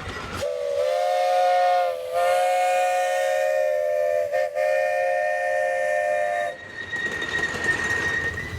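Steam whistle on a 15-inch gauge live steam locomotive blowing a chord, a short blast and then a longer one with a brief flutter near the middle, followed by a steady rushing noise of the train.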